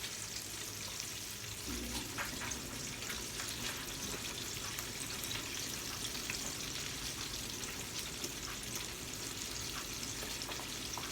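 Flour-dredged chicken frying in hot oil in a pan: a steady sizzle with many small crackles.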